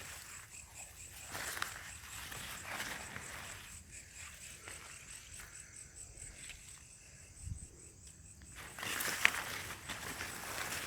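Footsteps rustling through field vegetation, louder for a stretch near the end, with a steady high trill of crickets behind.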